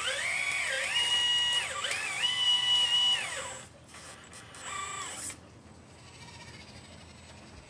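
Electric motor whine of a 1/12-scale RC Liebherr 954 excavator, twice rising in pitch, holding steady and falling away as the machine is worked, with a shorter burst about five seconds in. After that only a faint hiss remains.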